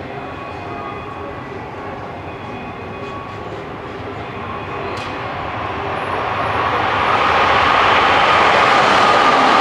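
Keikyu electric train approaching: its running noise swells over several seconds into a steady loud rush with a steady hum on top.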